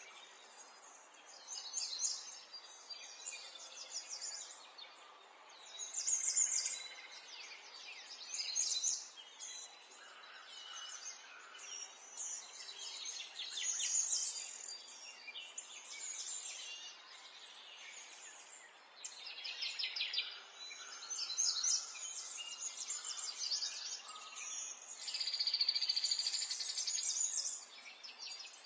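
Birds singing: repeated bursts of rapid, high chirps and trills every second or two, over a faint background hiss.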